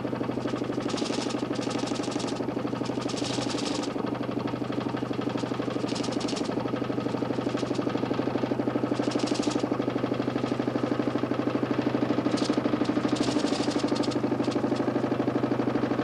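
DC motor spinning a 40 cm plywood Nipkow disc in a homemade mechanical television: a steady hum with a fast, even flutter. Short bursts of hiss come and go every second or two.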